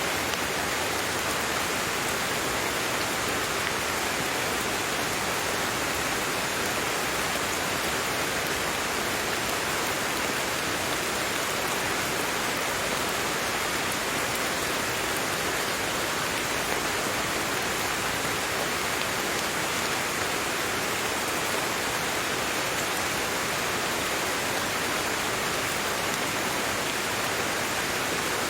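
Steady heavy rain, a dense even hiss of falling rain with no separate drops or gaps standing out.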